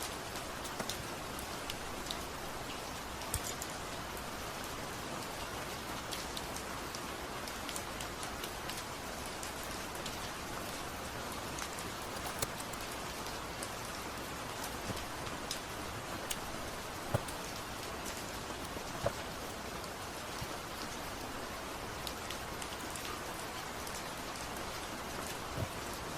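Steady rain-sound ambience: an even hiss of rainfall with scattered sharp ticks of drops.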